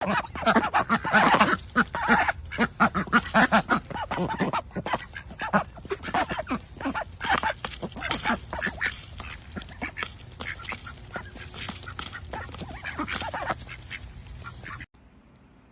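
Ducks quacking, many rapid calls in quick succession, loudest in the first few seconds, then cutting off abruptly about a second before the end.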